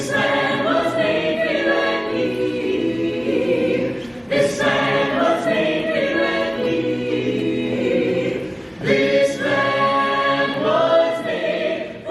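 An a cappella choir singing in harmony, several voices together without instruments; the phrases break off briefly about four and about nine seconds in before new phrases begin.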